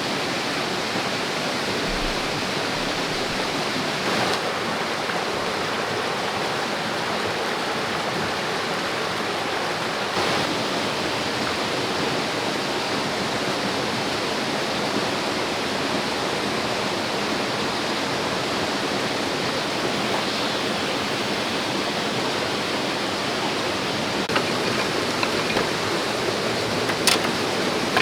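Shallow river rushing over rocks in a steady, even wash of water noise, with a few small clicks near the end and one sharp click about a second before it ends.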